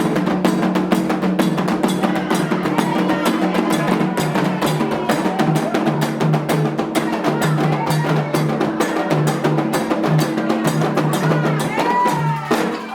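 Candomblé ritual drumming on atabaque hand drums, with a dense, fast rhythm of sharp strikes over steady low drum tones. It stops abruptly just before the end.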